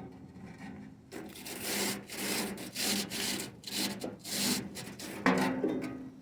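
Hand sanding: about seven quick back-and-forth rubbing strokes of abrasive on a train part. About five seconds in there is a knock with a short ring.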